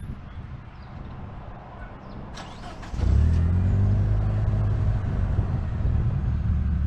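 Manual-transmission car engine running low and quiet, then revving up sharply about three seconds in and holding at raised revs as the clutch is let out for a hill start. A brief click comes just before the revs rise.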